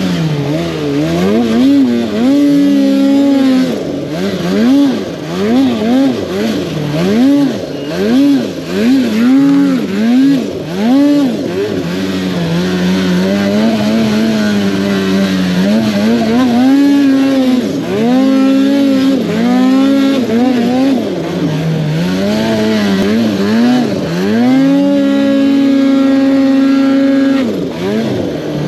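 Snowmobile engine revving in a rapid series of throttle blips, pitch rising and falling about once a second, then running steadier with a few more surges and a long held high rev near the end before it drops off.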